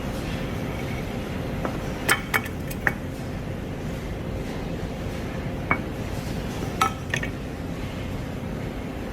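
A few light metallic clinks in two small clusters, over a steady low rumble.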